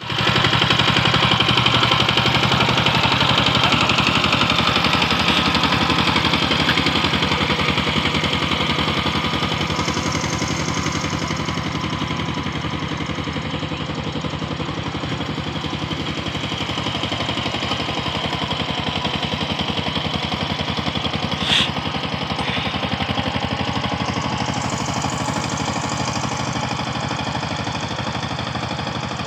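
Diesel engine of a walk-behind power tiller running steadily at a fast, even firing beat, with one sharp click about two-thirds of the way through.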